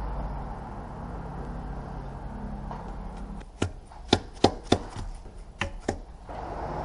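A steady, vehicle-like running noise, then a quick run of about eight sharp knocks over two and a half seconds, the loudest sounds here; the steady noise comes back near the end.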